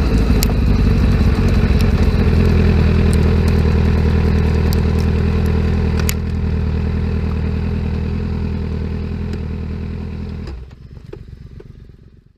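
2017 Kawasaki Z900's inline-four engine idling steadily through a CS Escapamentos full aftermarket exhaust, with scattered light ticks. About ten seconds in the engine is switched off and the sound cuts out, leaving a few faint ticks.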